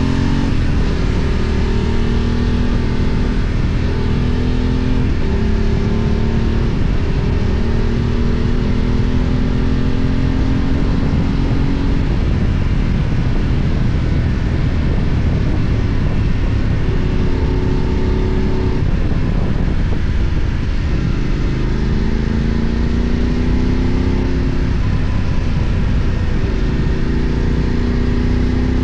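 Voge 900DSX motorcycle's twin-cylinder engine under way, pulling up through the gears several times: the pitch climbs, then drops back at each shift, over a heavy low rumble.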